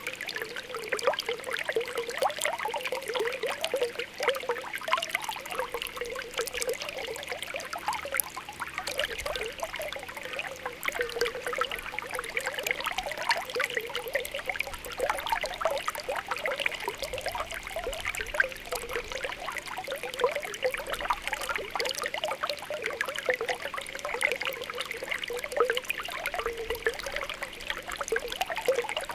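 Spring water welling up and bubbling with a steady run of small popping and gurgling blips over a continuous trickle.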